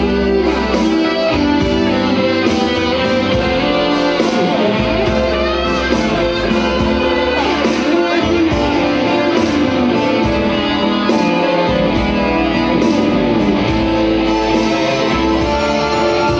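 Instrumental break in a slow blues song: guitar playing over a changing low bass line, with steady sustained notes.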